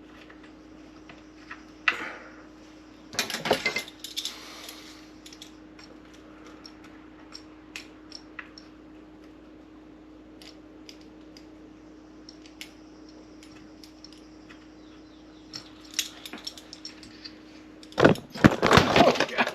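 Small metal parts and hand tools being handled during a coffee-machine repair: scattered light clicks and rattles, with a short burst of rattling about three seconds in, over a faint steady hum. Near the end comes a much louder clatter as something tumbles.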